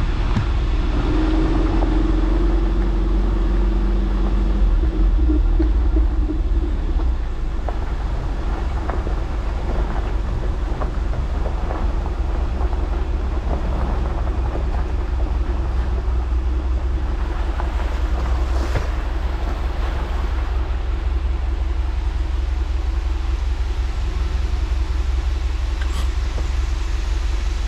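Vehicle on the move: a steady low rumble of engine and road noise, with a steady hum in the first few seconds.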